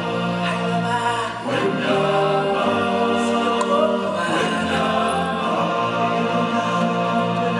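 Choir of voices singing held, sustained notes together, with musical backing, as part of a live stage show.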